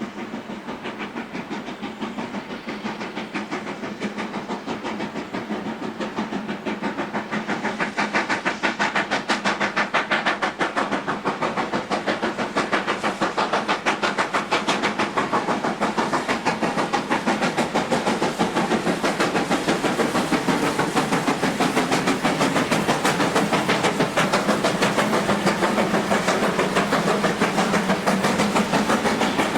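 Steam locomotive working under power, its exhaust beating rapidly and steadily. The sound grows louder over the first several seconds as it draws near, then holds strong.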